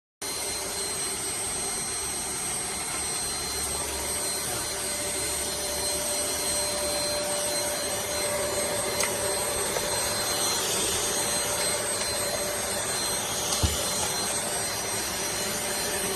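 Deerma VC20 Plus handheld vacuum cleaner running steadily, its motor's hiss carrying a high whine. It comes in abruptly just after the start, with a single small knock near the end.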